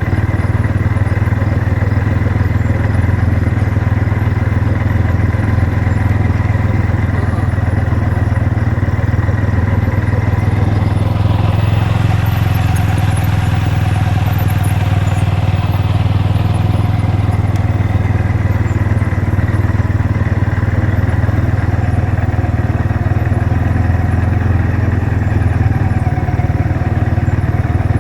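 Car engine idling steadily with a low, even rumble; a hiss rises and fades away about halfway through.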